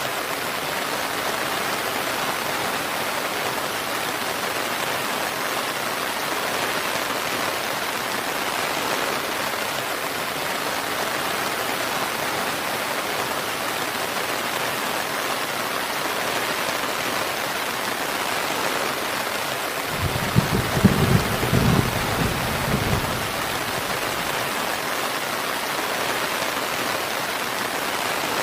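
Steady rain falling, an even hiss throughout. About twenty seconds in, a short low rumble of thunder lasting about three seconds rises over the rain.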